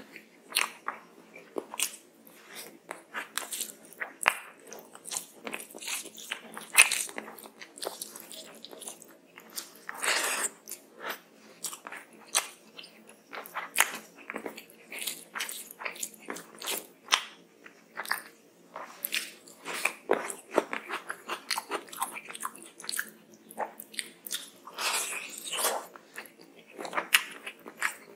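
Close-miked eating by hand: chewing mouthfuls of rice and curry with many quick wet mouth clicks, along with the soft squish of fingers mixing rice into curry.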